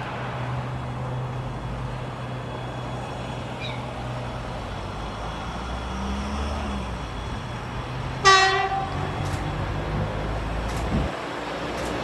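Freight train running on the line with a steady rumble and low hum; about eight seconds in, the locomotive's horn gives one short, loud toot.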